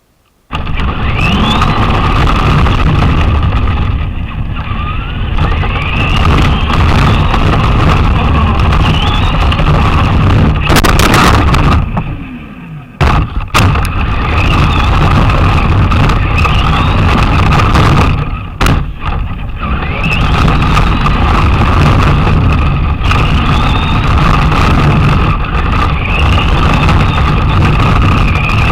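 Traxxas Slash RC car running hard, with a close, loud rumble from its wheels and drivetrain and a motor whine that rises in pitch again and again as it speeds up. About twelve seconds in it slows almost to a stop, the whine falling, then takes off again; a sharp knock comes near the two-thirds mark.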